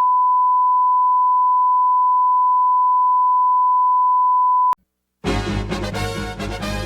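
A steady, single-pitch test-tone beep held for about four and a half seconds, cut off with a click; after a moment of silence, loud music starts.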